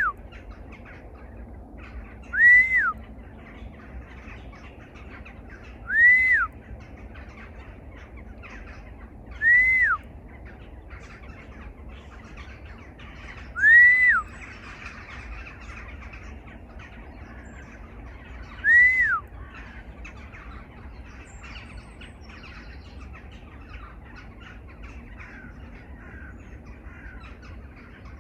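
A bird giving a loud, clear call that rises and then falls in pitch, repeated every three to five seconds and stopping after about twenty seconds, over faint chirping of other small birds.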